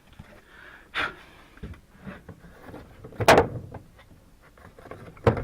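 A few sharp knocks and clatters of wood being handled and set down on a workbench, the loudest about three seconds in and two more close together near the end.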